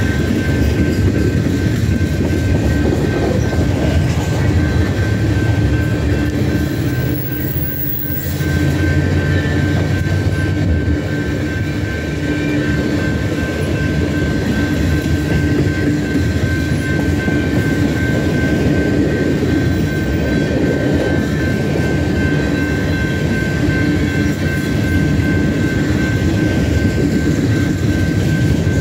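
Empty open-top coal hopper cars of a BNSF freight train rolling past on steel wheels, a steady rumble with a steady high tone held above it.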